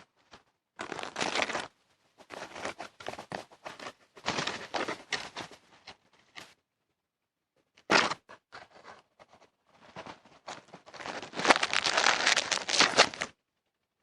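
Rustling, crinkling noise in irregular bursts, loudest in a long stretch near the end.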